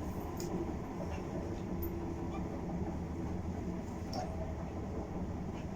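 Steady low hum inside a Class 450 Desiro electric multiple unit standing at a platform, its onboard equipment running, with a faint steady whine for a second or so in the middle.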